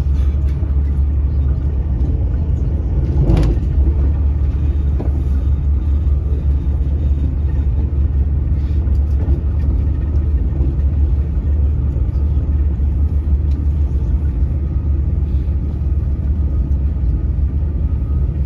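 Öresundståg electric train running at speed, heard from inside the carriage: a steady low rumble of wheels on rails, with one brief sharp knock about three and a half seconds in.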